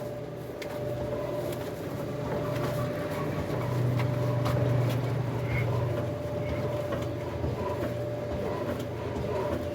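Old black Ruston diesel engine turning over as it is cranked by hand to start, a low rhythmic beat that swells and then eases, with a steady hum above it.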